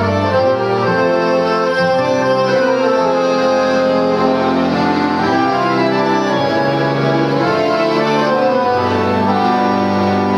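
Accordion orchestra playing Christmas music: many accordions holding full, sustained chords that change every second or so over a moving bass line.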